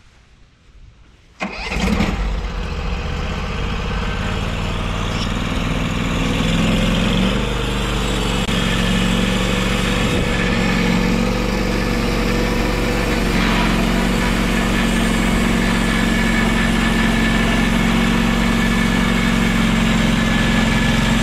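The portable sawmill's gas engine starts about a second and a half in, then runs steadily. A few seconds later it settles at a higher speed.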